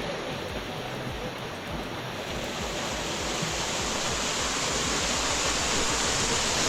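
Steady rush of water from a waterfall, growing a little louder about two seconds in.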